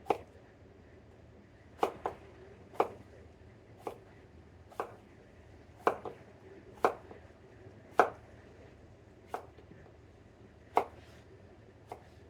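Kitchen knife cutting down onto a cutting board, about a dozen sharp knocks spaced unevenly, roughly one a second, as an onion is sliced.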